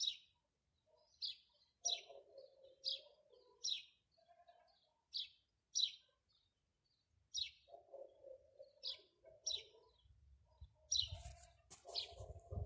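A small bird chirping over and over, a short high chirp about every half second to a second. A low rumble comes in near the end.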